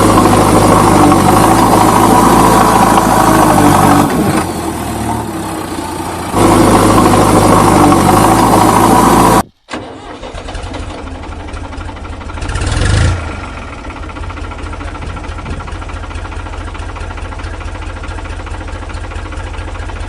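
Loud music with held steady notes cuts off abruptly. It is followed by a diesel engine idling with an even beat, which revs briefly a few seconds later.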